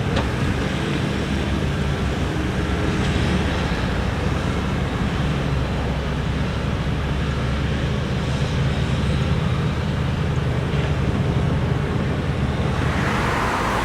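Steady low rumble of vehicle noise, like road traffic, with no distinct events.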